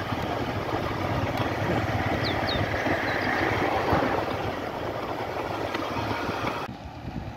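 Vehicle engine running with a steady rush of wind and road noise on the microphone, which drops off abruptly near the end.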